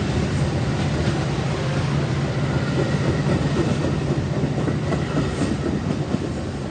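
A train rolling past: a steady rumble from the railcars, with wheels clicking over the rail joints.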